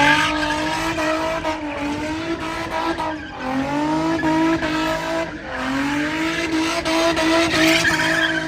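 V8 car engine held at high revs during a drift or burnout, the pitch wavering and dipping twice before climbing again, with tyres squealing.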